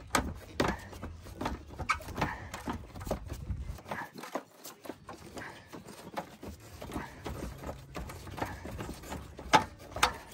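Irregular knocks and clunks of a car's rusty stock exhaust being worked loose from underneath, metal parts banging as it is pushed and pulled off its mounts.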